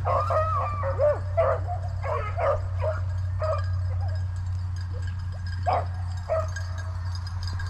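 A pack of hunting dogs baying and yelping on a rabbit's track, several voices overlapping, the calls growing sparse after about six seconds.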